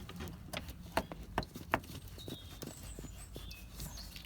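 Scattered light clicks and knocks as a new rubber radiator hose with pre-fitted clamps is handled and worked onto its pipe.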